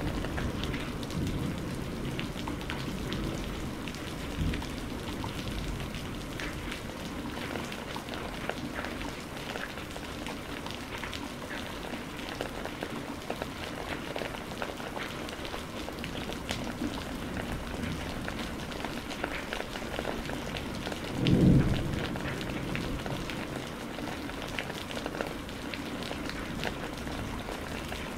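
Steady heavy rain pattering, with dense drop ticks throughout. About three-quarters of the way through comes one short, loud, deep boom of thunder, with a fainter low thump earlier.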